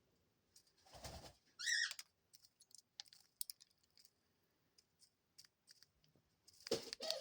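Dove pecking seeds off a millet spray: scattered sharp little beak clicks. A brief high squeak comes about two seconds in, and a dove's coo starts near the end.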